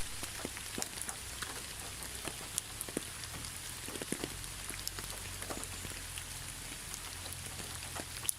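Steady rain falling, an even hiss with many separate drops ticking sharply against a surface at irregular moments.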